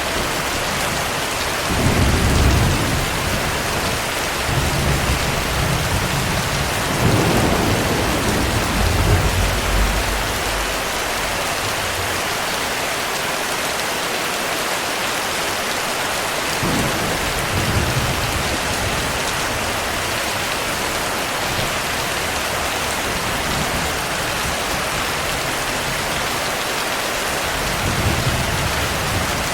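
Heavy rain falling steadily, with low rolls of thunder: one about two seconds in, a longer rolling rumble from about five to ten seconds in, and fainter ones near the middle and near the end.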